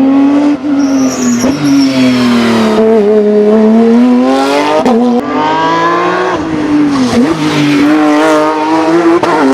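Race car engine at high revs on a hillclimb run. The pitch rises and falls, with short breaks in the note about 1.5, 5 and 7 seconds in as the driver shifts or lifts off.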